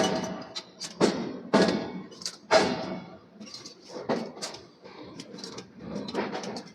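Forging hammer striking a steel billet: heavy metallic blows at the start and about one, one and a half, and two and a half seconds in, each with a short ring, then lighter metallic knocks and clatter.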